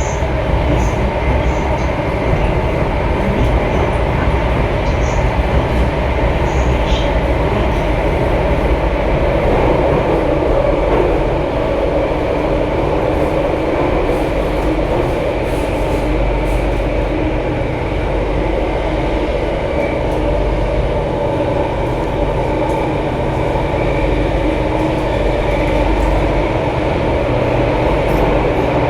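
Alstom Metropolis C830 metro train running: a steady rumble of wheels on rail with a constant motor hum that does not start or stop.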